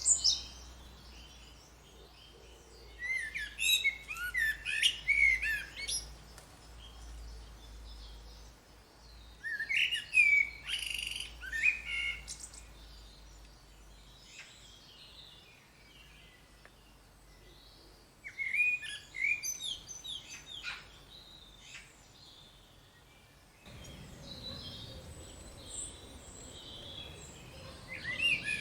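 A garden songbird singing high, warbled phrases of two to three seconds, with pauses of several seconds between them. About twenty-four seconds in, the background changes to a steadier hiss with softer chirps.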